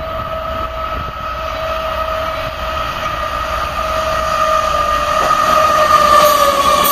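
CSX freight locomotive leading an intermodal train as it approaches and passes, with a steady high whine over the rumble. The sound grows louder throughout, and the whine dips slightly in pitch as the locomotive goes by near the end.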